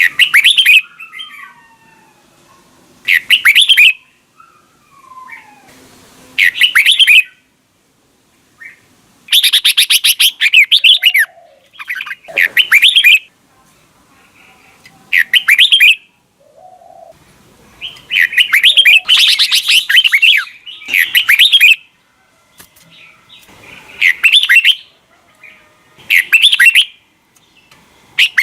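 Red-whiskered bulbul singing: loud, rapid warbled phrases about one to two seconds long, repeated every few seconds, with fainter chirps in between.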